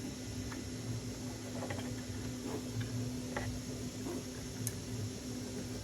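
Faint, scattered light ticks and clicks of small plastic parts and wires being handled, over a steady low room hum.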